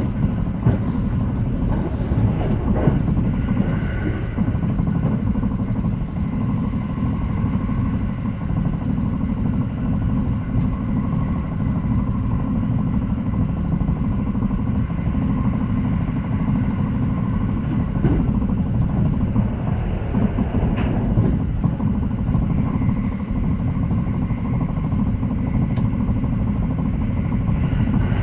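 Haruka limited express train running at speed, heard inside the passenger car: a steady low rumble from the wheels and track, with faint steady whining tones and occasional light clicks.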